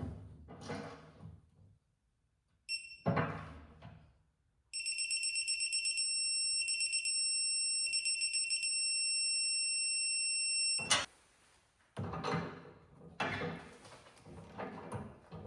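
Electronic beeping from a digital torque wrench as a bolt is tightened: a short high beep, then a steady high-pitched beep held for about six seconds that signals the set torque is reached, ending with a sharp click. Metal tool clatter and ratcheting come before and after it.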